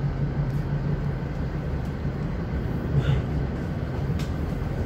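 Passenger train running, heard from inside the carriage: a steady rumble with a low hum, and a couple of faint clicks about three and four seconds in.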